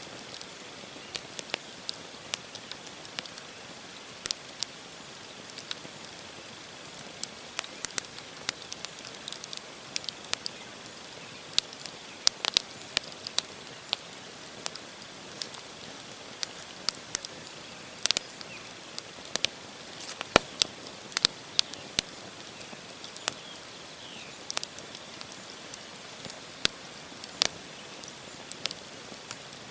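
Wood campfire burning: burning logs crackle and pop in irregular sharp clicks, some much louder than others, over a steady soft hiss.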